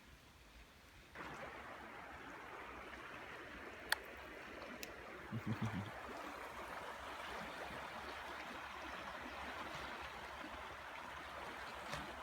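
River water flowing, a steady rush that starts suddenly about a second in, with one sharp click near four seconds and a few soft low thumps a little later.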